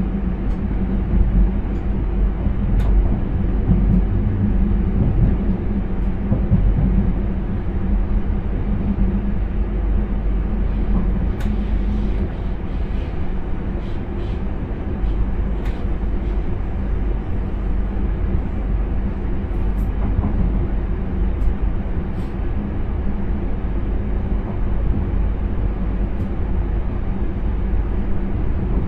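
Intercity train running, heard from inside the driver's cab: a steady low rumble of wheels on rails, with a low hum that fades out about ten seconds in and scattered faint clicks.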